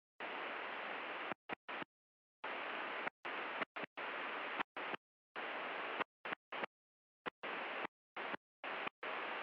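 Aviation radio static, a steady hiss that cuts in and out abruptly more than a dozen times, with dead silence between bursts. It is the squelch opening on an open carrier, typical of a stuck microphone keying the frequency on and off.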